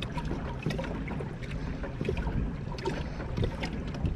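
Irregular small knocks and scrapes from a kayak and its gear being handled, over a low steady rumble.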